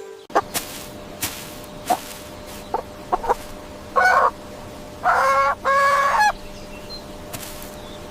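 Chickens clucking: a few short sharp clucks, then three longer, drawn-out calls about four to six seconds in.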